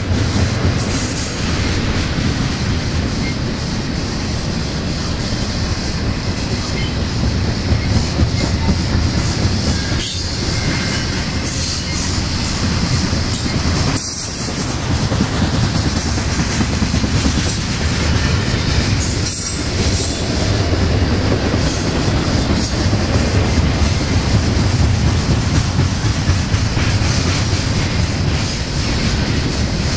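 Double-stack intermodal container train rolling steadily past at close range: loud, continuous rumble and clatter of the well cars' wheels on the rails, with brief high-pitched wheel squeals now and then.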